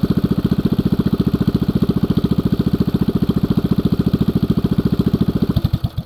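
Axis M200 minibike's 196cc single-cylinder four-stroke engine, fitted with a stage 1 kit and aftermarket header, idling with an even, rapid beat of about a dozen pulses a second. Near the end it is shut off: the beats slow, spread out and stop.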